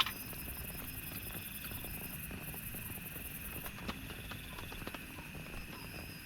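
Rain pattering, with scattered sharp drops knocking, and one louder knock right at the start. A steady high-pitched animal trilling runs through it at a few pitches; the highest one drops out for a second or so in the middle.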